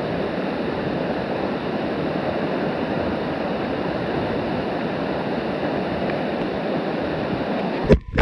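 Steady rush of a waterfall pouring into a pool, ending with a sudden loud knock just before the end.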